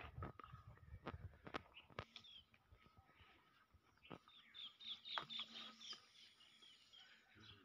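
Faint chirping of small birds: quick runs of high chirps about two seconds in and again through the middle, with scattered soft clicks and rustles.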